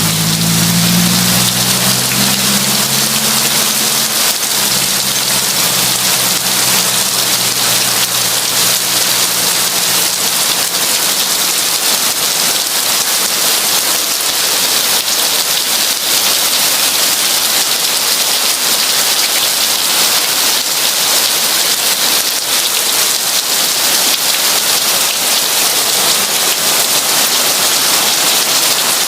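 Heavy rain falling in a steady, dense hiss. Over the first several seconds a low droning hum fades away underneath it.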